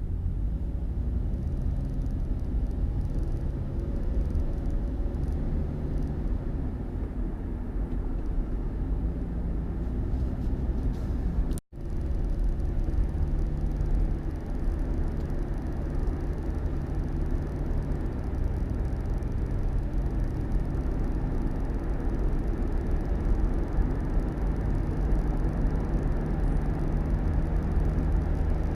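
Steady low rumble of a vehicle on the move, with a faint engine hum that shifts in pitch now and then. The sound cuts out for a moment about twelve seconds in.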